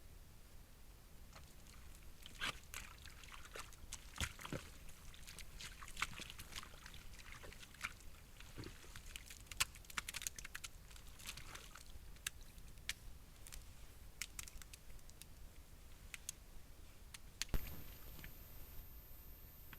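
Wild animals foraging close by at night: irregular crunching, snapping and rustling, with one louder thump near the end followed by a faint steady high whine.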